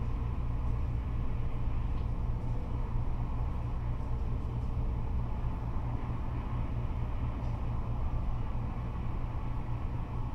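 Steady low rumble of freeway traffic, cars and trucks passing without a break.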